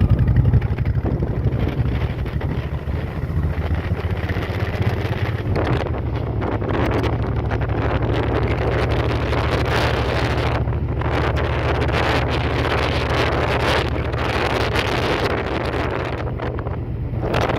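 Motorcycle engine running at a steady speed while riding, under heavy wind noise on the microphone that grows louder about six seconds in.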